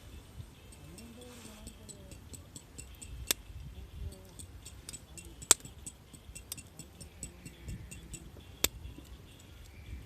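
Wood campfire crackling, with a steady patter of small ticks and three sharp pops from the burning wood.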